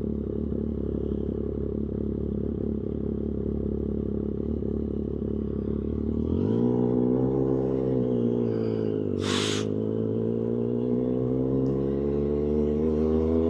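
Triumph Street Triple 765 RS's three-cylinder engine through a tuned SC-Project exhaust, running low and steady, then accelerating hard about six seconds in. Around nine seconds the pitch drops as it shifts up, with a brief burst of noise, then climbs again.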